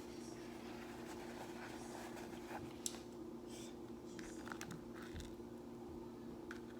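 Faint scratching and light clicking handling noises over a steady low hum.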